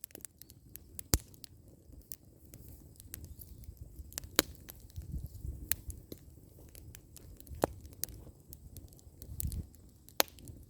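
Wood fire of burning logs crackling, with sharp irregular pops and snaps over a low rumble.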